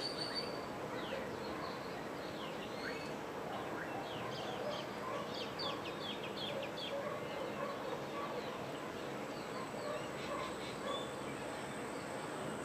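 Wild birds calling: many quick, falling chirps in rapid runs, busiest in the middle and again near the end, over a steady outdoor background.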